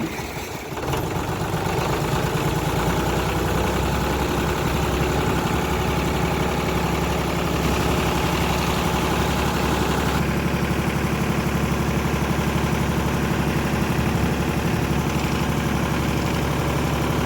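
Tractor's diesel engine running steadily, its note changing about three seconds in and again about ten seconds in.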